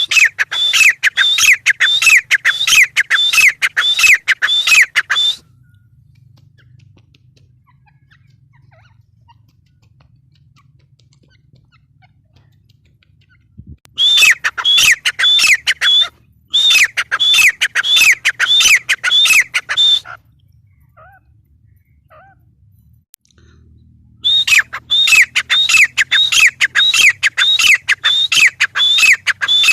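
Gray francolin calling: loud strings of sharp, falling notes repeated about three times a second, in several bouts with pauses of a few seconds between.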